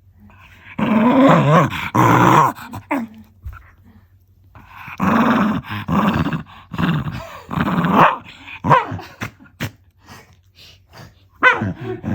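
Black Shiba Inu growling in play at a person's foot. There are two long bouts of growling, then a string of short growls near the end. It is fierce-sounding play growling, not anger.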